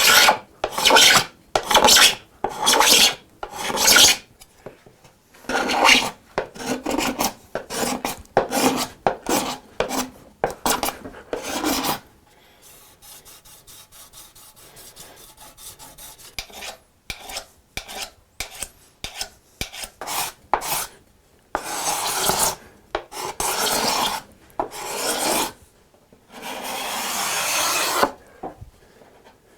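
A hand tool rubbing over hardwood in repeated strokes, knocking down the high spots. The strokes come quick and short at first, go quieter for a few seconds midway, then turn longer and slower near the end.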